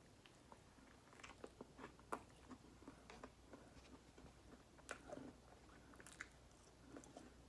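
Faint, close chewing of a mouthful of chicken sandwich: scattered soft mouth clicks and smacks.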